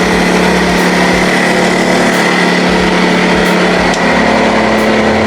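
Portable air compressor's motor and pump running steadily with a constant hum and whine.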